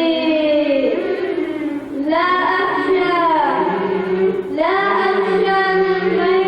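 Arabic devotional elegy sung by a vocal group: a lead voice in long, bending phrases over a steady held lower note. New phrases begin about two seconds in and again past the middle.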